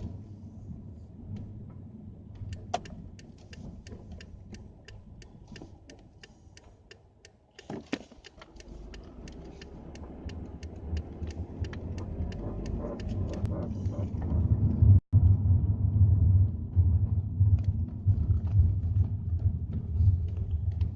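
Repeated creaking clicks, about three a second, over a low rumble that grows much louder in the second half.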